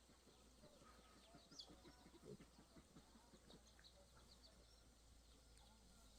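Very quiet ambience with faint, scattered short bird chirps and a few soft rustles.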